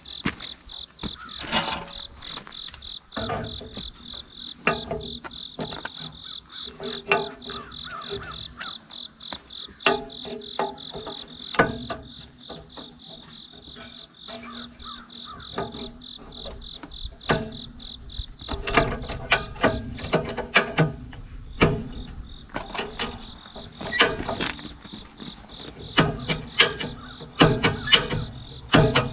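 Insects chirping steadily, a fast even pulsing with a high hiss above it, under irregular clicks and knocks that come thicker and louder in the last ten seconds.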